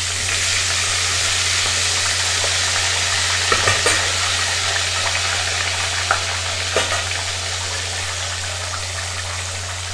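Egg-and-starch-coated crab pieces frying in hot oil in a pot: a steady sizzle, with a few light clicks of a utensil against the pot about four and seven seconds in.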